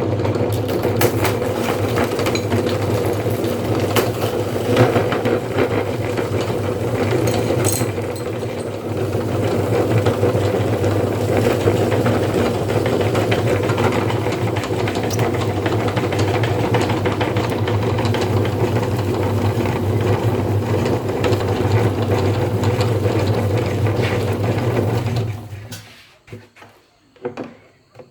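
Meat grinder running steadily with crackling and clicking as it grinds grape candy; it shuts off about 25 seconds in, leaving a few faint clicks.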